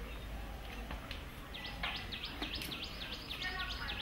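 A bird calling a fast run of sharp chirps, about four or five a second, starting about a second and a half in, over steady outdoor background noise.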